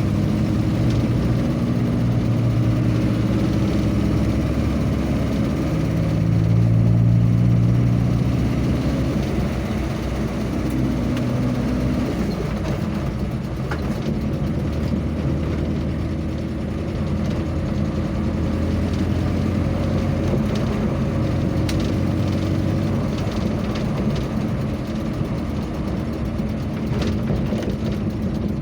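Vehicle engine running on the road, its pitch rising and falling several times as it speeds up and eases off, over steady road noise.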